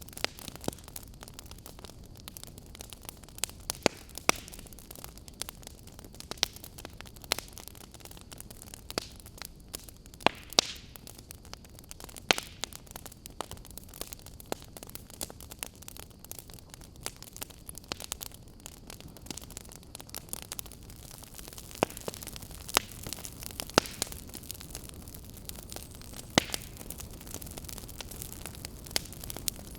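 Wood fire burning in a fireplace: irregular sharp crackles and pops, a few louder than the rest, over a steady low hiss.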